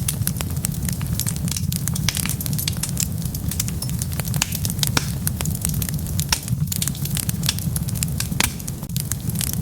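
Wood fire crackling, with many sharp, irregular pops and snaps over a steady low rumble of burning.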